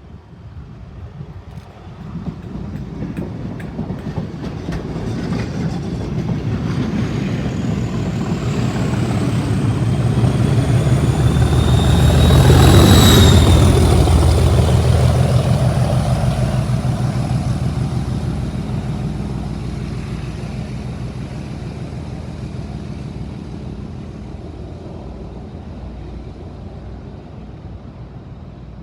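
Class 37 diesel locomotive 37175 passing under power: its English Electric V12 engine's deep, heavy running grows louder, peaks about halfway through, then fades slowly as it goes away. A high turbocharger whistle rides over it and drops in pitch as the locomotive goes by.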